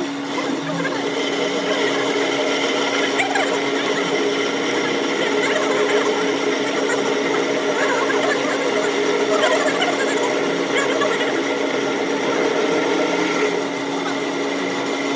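A workshop power tool running steadily at one even pitch, with a busy mechanical rattle over it.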